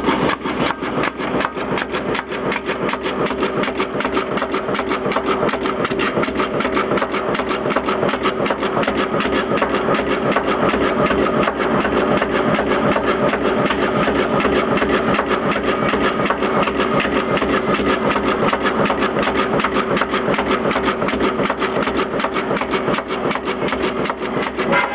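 POLTEM SW 42 cardboard spine-cutting machine running with a rapid, even clatter of repeated strokes.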